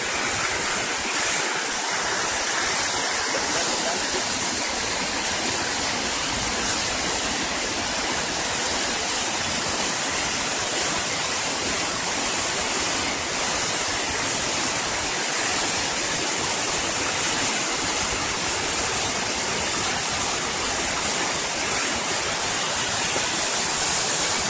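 Waterfall's rushing water, a steady, unbroken roar of falling water.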